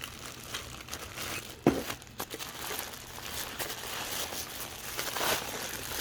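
Packaging crinkling and rustling as small parts are handled, with a sharp knock about a second and a half in and a lighter one just after.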